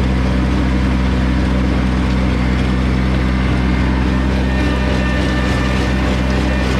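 Kubota BX2200 compact tractor's three-cylinder diesel engine running steadily at high throttle, driving a PTO rotary tiller.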